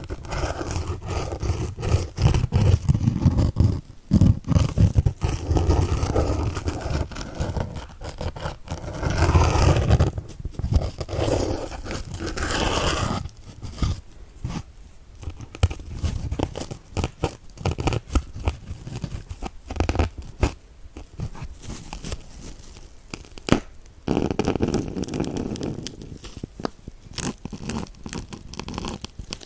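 Kitchen dish sponge being stabbed with needles and handled close to the microphone. It makes irregular crackling, scratching and crunching with many sharp little clicks, busy in long bursts and sparser in between.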